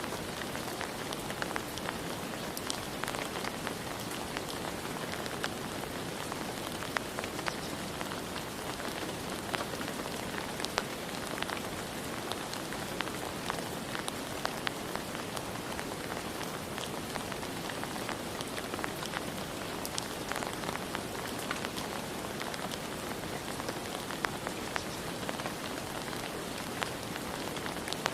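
Steady rain, a continuous hiss with frequent sharp ticks of individual drops striking a surface.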